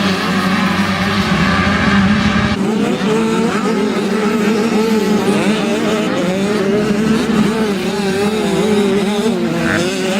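Motocross bike engines running hard on the track, their pitch rising and falling as the riders work the throttle, with an abrupt change in the sound about two and a half seconds in.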